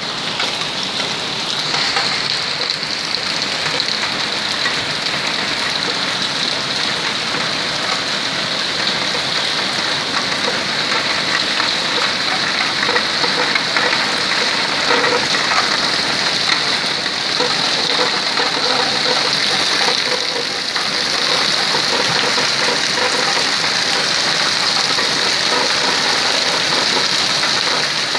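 Heavy rain falling steadily, splashing on wet ground and paving.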